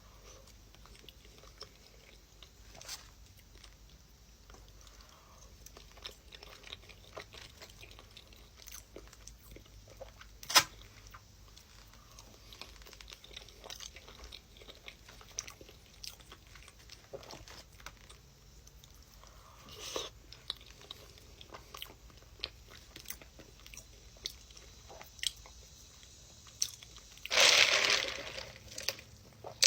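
A person biting and chewing crunchy food close to the microphone, in scattered crisp crunches. There is one sharp, loud crunch about a third of the way in and a longer, louder burst of crunching near the end.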